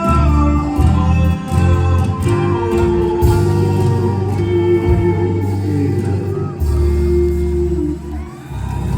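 Live band playing the closing instrumental bars of a soft-rock ballad, ending on a long held chord that stops shortly before the end.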